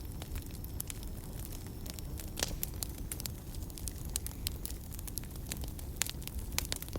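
Wood fire burning in a fireplace: a steady low rumble of flame with irregular sharp crackles and pops throughout, a few louder pops about two and a half seconds in and near six seconds.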